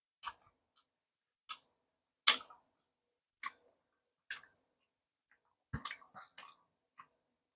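Close-miked eating sounds: crisp crunches and mouth clicks of chewing, about one a second, with a quick run of several near the end.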